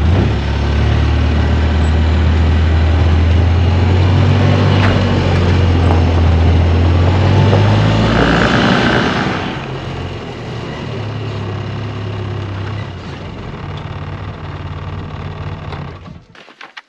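Polaris four-wheeler (ATV) engine running under way, loud for the first nine seconds or so, then quieter and lower for the rest, and cutting off about a second before the end.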